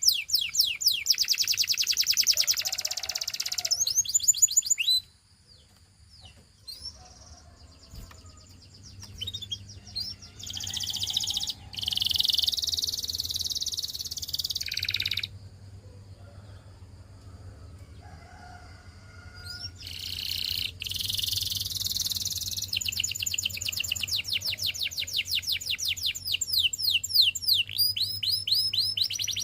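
Domestic canary singing in rapid trills and rolls, in three phrases separated by pauses of a few seconds, the last phrase the longest, over a faint low hum.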